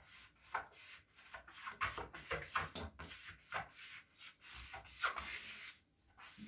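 Squeaky scrubbing on a surface during cleaning: repeated rubbing strokes about two a second, with a short pause about two thirds of the way through.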